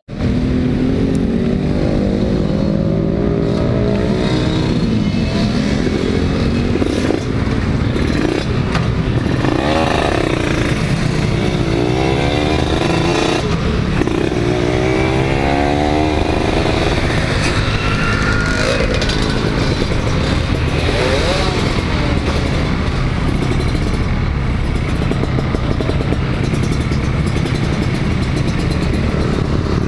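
Kawasaki Ninja 150 two-stroke single-cylinder engine running under way, its pitch rising and falling several times as the rider opens and closes the throttle through the gears, over a steady rush of wind and road noise.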